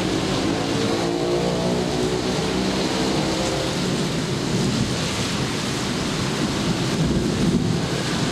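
Steady rain falling, with a passing motor vehicle's engine humming over it that fades away about three seconds in.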